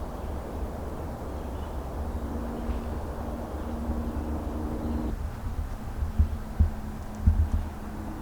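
Outdoor trail ambience: a low rumble over the microphone with a faint steady hum for a few seconds, then several dull thumps about six to seven and a half seconds in, like footsteps.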